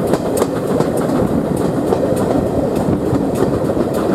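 Passenger coach of a moving train running along the line: a steady rolling rumble of wheels on rail, with sharp irregular clicks of wheel clatter over the track.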